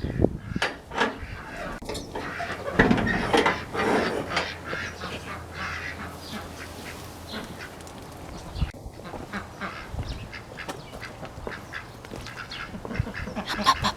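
Domestic ducks quacking on and off, with the most calls a few seconds in and again near the end.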